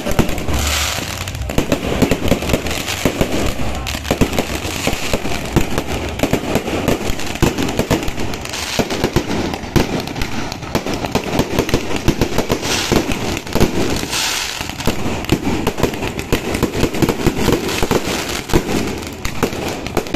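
Fireworks and firecrackers going off in a dense, continuous barrage of bangs and crackling, with short hissing rushes of sparks a few times.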